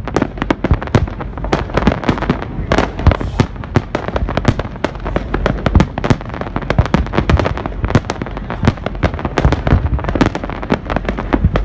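Fireworks display: a rapid, continuous barrage of loud bangs and crackles, several shells bursting every second.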